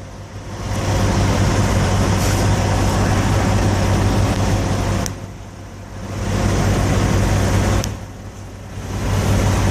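Loud rushing noise over the steady low hum of idling trucks, dropping away briefly twice.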